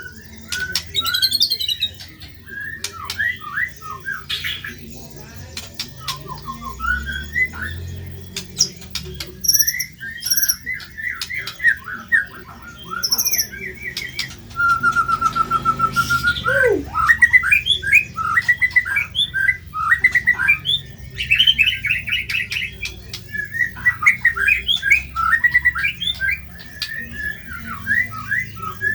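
White-rumped shama (murai batu) singing a fast, varied song of harsh, chattering notes, with one held whistle about halfway through that ends in a falling glide.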